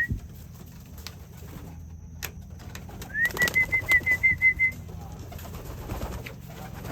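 Racing pigeons cooing in the loft, with a couple of sharp clicks. About three seconds in, a high, rapidly fluttering whistle sounds once for about a second and a half.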